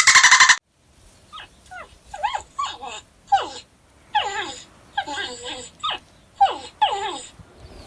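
A dog whining and yelping: a string of short high calls, each sliding down in pitch.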